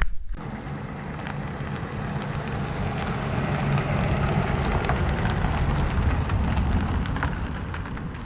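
Boat motor running steadily under way, with the rush of water and wind over the hum.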